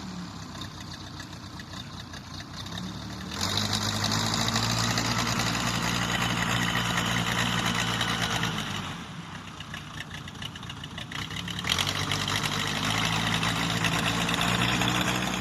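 An engine running steadily, growing louder twice for several seconds at a time, about three seconds in and again near the end.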